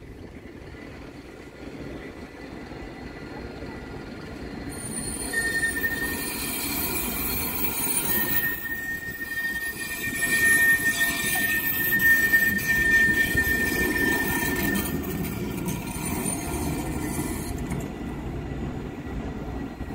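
Tram moving along street track, its running gear rumbling while the wheels squeal in one long, steady, high-pitched tone for about ten seconds, starting a few seconds in.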